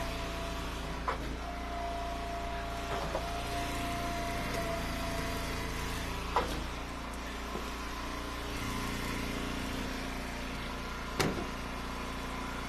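Hydraulic wood splitter's gas engine running steadily, with a thin higher whine in the first few seconds. A few sharp knocks of split firewood come over it, the clearest about six and eleven seconds in.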